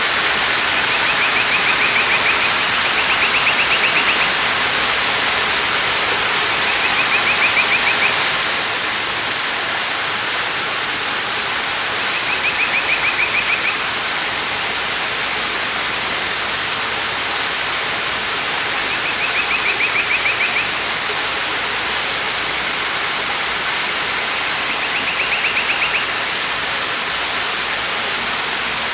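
Waterfall rushing steadily. About every few seconds, a bird gives a short, rapid trill at one pitch, about six times in all.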